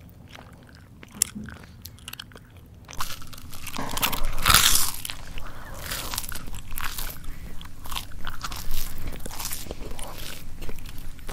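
Close-up mouth chewing crunchy food. There are soft scattered mouth clicks at first, then louder, irregular crunching bites and chewing from about three seconds in, loudest around four and a half seconds.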